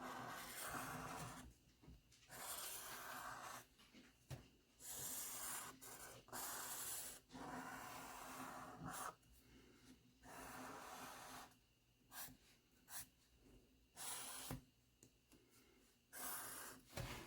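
Faint pen strokes on paper as a drawing is outlined: a series of short scratchy strokes, each lasting about a second, with brief pauses between them.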